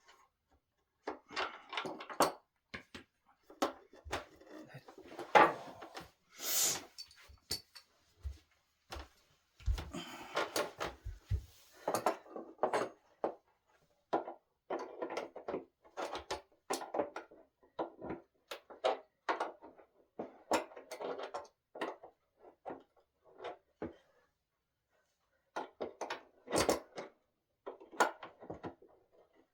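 Handling of solid-wood dining table parts during assembly: a run of short wooden clicks and knocks, with a few dull thumps about ten seconds in and a sharper scrape or clatter about six seconds in.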